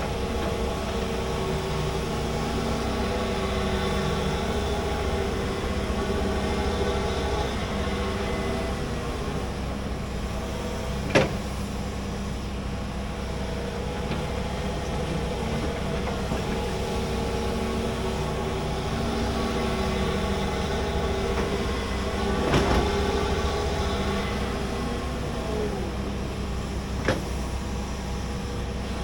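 Large hydraulic excavator running while it digs, the engine note shifting in pitch as the hydraulics work, with three sharp clanks, the loudest about eleven seconds in.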